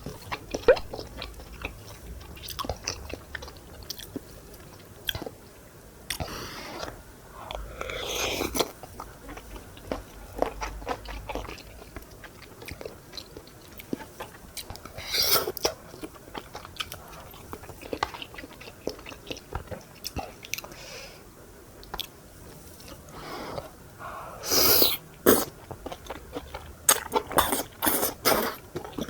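Close-miked eating of a tteokbokki meal: wet chewing and biting with small clicks and crunches, and a few louder bursts of eating noise around the middle and near the end.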